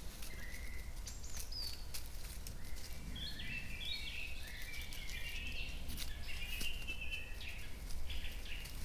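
Several birds chirping and calling in short trills and stepped notes, over a steady low rumble of outdoor background noise with scattered faint clicks.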